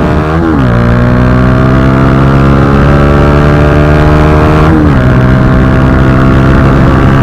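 Bajaj Pulsar NS160's single-cylinder engine through an Akrapovic slip-on exhaust, accelerating under way. The revs climb steadily and drop sharply twice, about half a second in and again near the five-second mark, as it shifts up through the gears.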